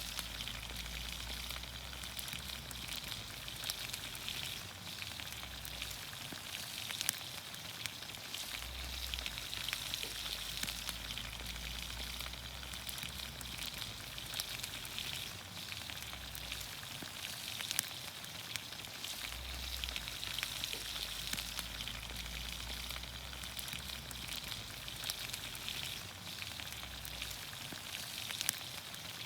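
Vegetables sizzling in olive oil in a pan over a campfire: a steady hiss with many scattered sharp crackles.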